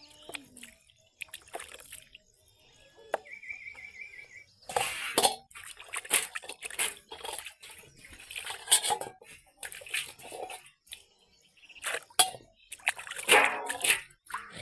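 Water splashing and sloshing in irregular bursts, with a bird chirping briefly about four seconds in.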